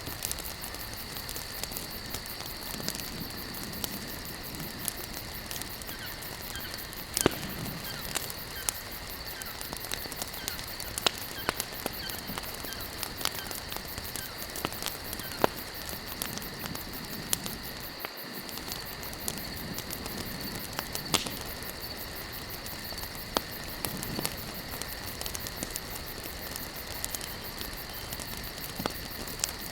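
Wood campfire burning, crackling over a steady hiss with sharp pops at irregular intervals, the loudest about seven seconds in. A steady high-pitched drone runs underneath.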